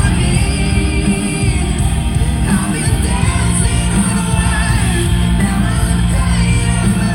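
Loud live band music from a rock-pop song, with a singer's voice over the band.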